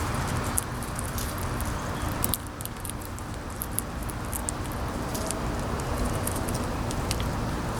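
Wind buffeting the microphone with a steady low rumble and rushing noise that eases slightly just over two seconds in. Over it, many small sharp clicks and ticks from squirrels and birds feeding on seed.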